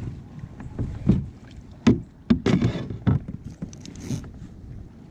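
Knocks and bumps on a Pelican Catch 100 plastic fishing kayak, about seven sharp ones spread over the few seconds, over a steady low rumble of wind and water.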